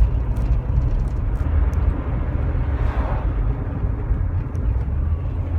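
Steady low engine and road rumble inside the cabin of a 2005 Rover 25 GSi, with a brief swell of rushing noise about three seconds in.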